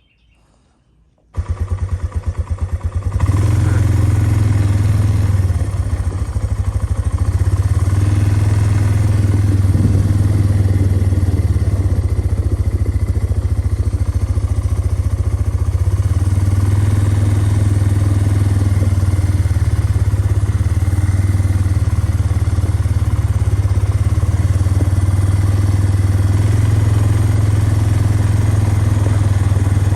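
A small engine comes in about a second and a half in, its firing heard as fast even pulses. It picks up about three seconds in and then runs steadily and loudly.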